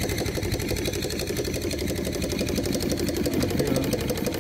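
Small steam engine running steadily on low-pressure steam at about 200 RPM, a fast, even clatter of its moving parts and steam exhaust.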